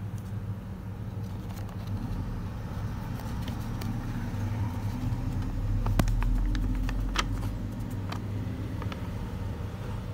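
A car engine idling with a low, steady hum, and a few sharp clicks between about six and nine seconds in.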